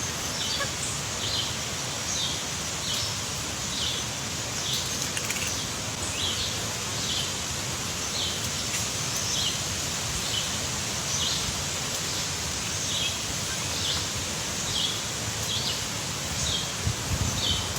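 A bird repeating a short, high chirp about once a second over a steady outdoor hiss.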